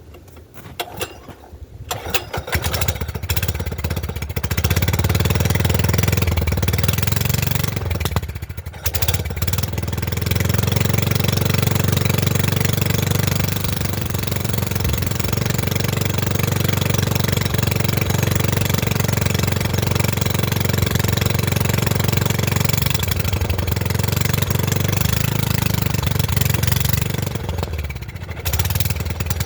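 Honda GX270 single-cylinder engine on a go-kart cold-starting with an open header exhaust: a few sputters, it catches about two seconds in and runs loudly, dipping briefly about eight seconds in and again near the end.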